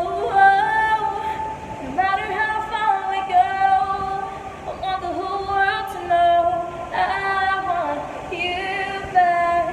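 A young woman singing a pop melody with long held notes and gliding pitch, one voice with no clear accompaniment.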